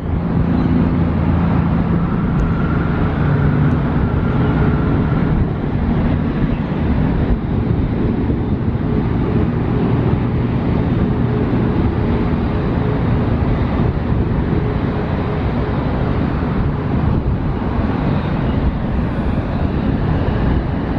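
Boeing 777-200ER jet engines at takeoff power: a loud, steady roar with a deep rumble.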